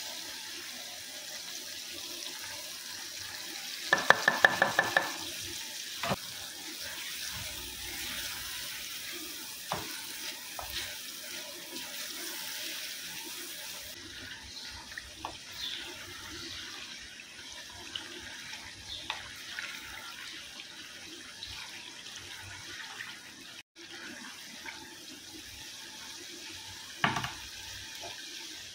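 Onion and spice masala sizzling steadily in hot oil in a clay handi, with scattered knocks and scrapes of a wooden spoon against the pot. A loud burst of rapid clatter comes about four seconds in, and a louder knock near the end.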